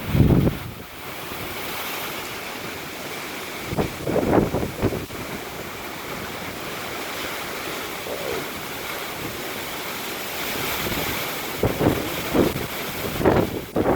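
Gusty storm wind rushing steadily, buffeting the microphone with low rumbling blasts at the start, about four seconds in, and several times near the end.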